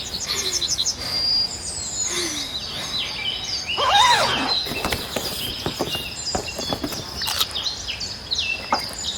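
Several birds chirping and trilling at once, in quick high notes that overlap throughout, with a louder swooping call about four seconds in.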